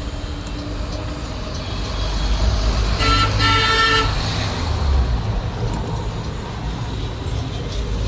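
A vehicle horn sounds about three seconds in: a short toot and then a longer one of about a second. A steady low rumble of traffic or an engine runs under it.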